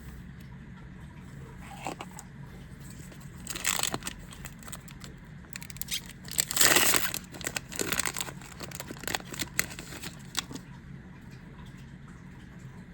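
A foil booster pack being torn open and its wrapper crinkled: a short rip a few seconds in, a longer, louder rip about halfway, then scattered crinkles and clicks of the wrapper and cards being handled. A steady low hum runs underneath.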